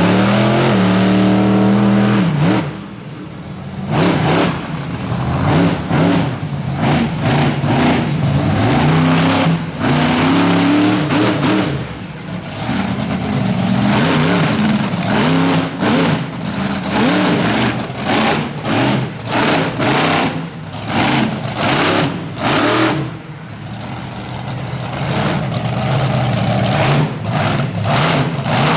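Monster truck engine revving hard in repeated throttle bursts, its pitch rising and falling over and over, with a short easing off a few seconds in and again near the end.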